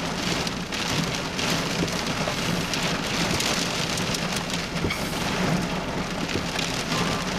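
Heavy rain pelting a vehicle's roof and glass, heard from inside the cabin as a dense drumming full of small sharp impacts, with a steady low hum underneath.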